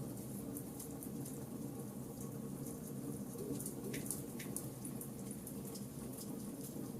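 Burning charcoal fire crackling: a constant run of small ticks and pops over a low steady rumble, with two sharper pops about four seconds in.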